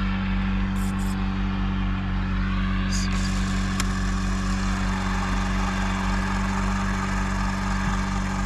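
Steady, even drone of an engine running, with a strong low hum that does not change, and a few faint clicks over it.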